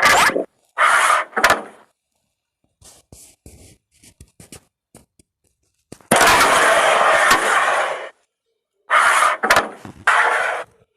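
Carrom board play: pieces and hands sliding and scraping across the board in several bursts, the longest lasting about two seconds midway, with a few sharp clacks of the striker hitting coins and faint small ticks in between.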